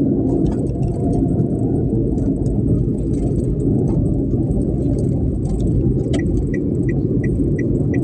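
Heavy rain and strong wind making a loud, steady low rumble with faint scattered ticks. About six seconds in, a short high beep starts repeating about three times a second.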